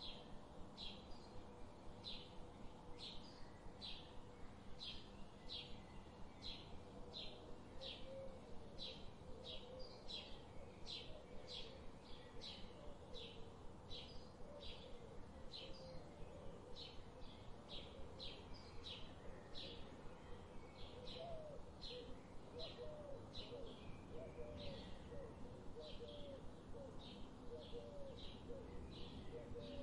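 Birds calling: a short high note repeated about two to three times a second throughout, joined from about eight seconds in by lower, quick rising-and-falling notes.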